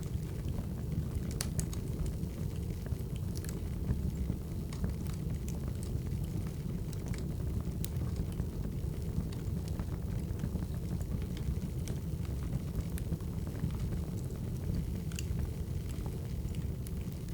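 Wood fire burning: a steady low rumble with irregular sharp crackles and pops of burning firewood.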